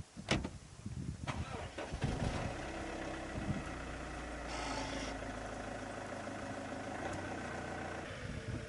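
An engine starting after a couple of sharp clicks, then running steadily at idle.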